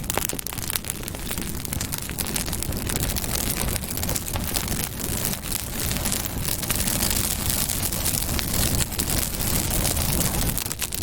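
Campfire burning, with dense crackling and popping over a steady low rumble of flames.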